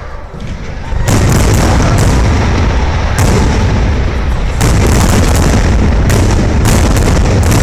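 Large fireworks display going off: a dense barrage of booms and sharp bangs that starts suddenly about a second in and keeps up without a break.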